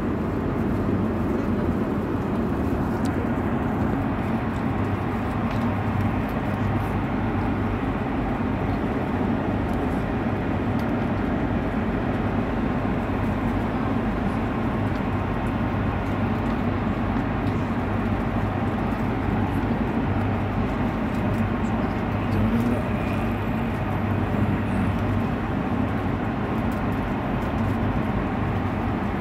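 Airliner cabin noise: the steady rumble and hiss of the engines and airflow, even and unbroken throughout.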